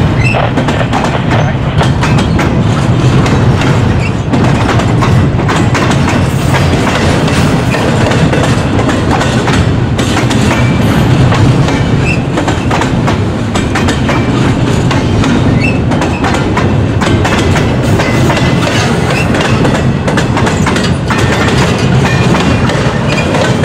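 Double-stack intermodal freight cars rolling past at close range: a steady loud rumble with the clickety-clack of wheels knocking over the rail joints.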